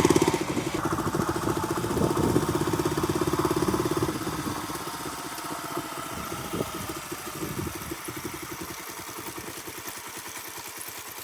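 Dirt bike engine idling with an even pulsing beat, getting quieter about four seconds in.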